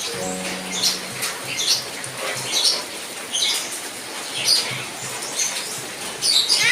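A bird chirping in short high notes, roughly one a second, over a steady hiss of heavy rain.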